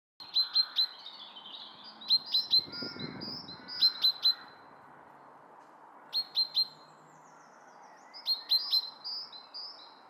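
Male chaffinch calling: five bursts of sharp, high notes a second or two apart, each opening with about three quick clipped notes followed by softer ones.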